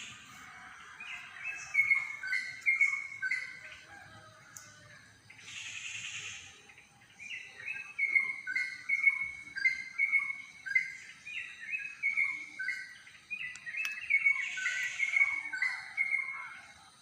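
A songbird singing long runs of quick, repeated two-note whistled phrases. A pause of a few seconds comes near the start, and there are brief hissing sounds about three times.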